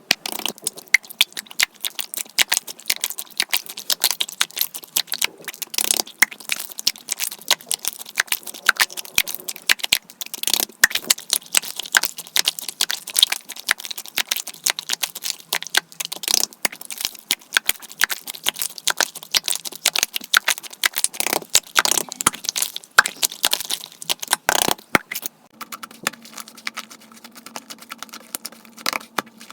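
Dense, irregular clicking, tapping and rattling of small objects being handled on a hard surface, played back at four times speed so the taps run together several to a second.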